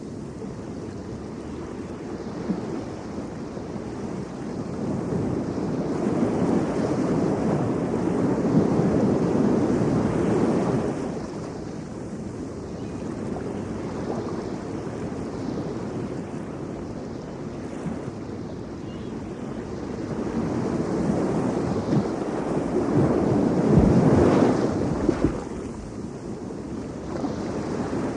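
Ocean surf on an Atlantic beach: waves breaking and washing in as a steady rush, with two loud surges, about a third of the way in and again near the end.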